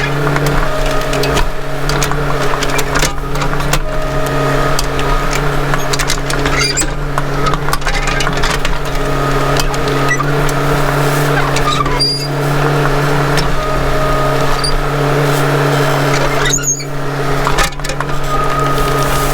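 Mini excavator engine running at a steady pitch, with scattered cracks and snaps of brush and wood breaking as it clears underbrush.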